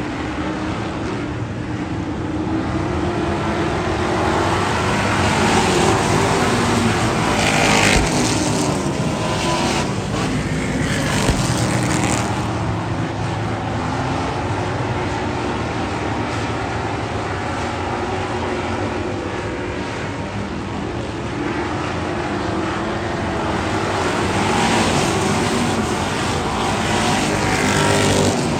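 Race car engines running on the track, their pitch rising and falling as the cars accelerate, lift and pass.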